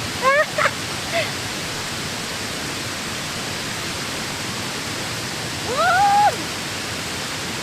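A woman's short, rising 'mm' sounds of delight as she eats, three times, the last one longer, over a steady rushing noise.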